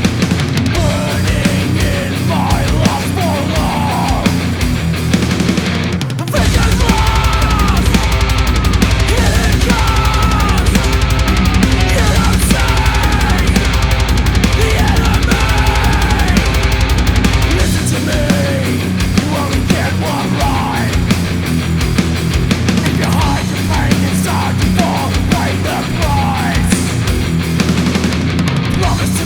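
Black metal: distorted guitar riffs over fast drumming, with a wavering melody line above. About six seconds in, it gets louder and heavier in the bass, easing back near eighteen seconds.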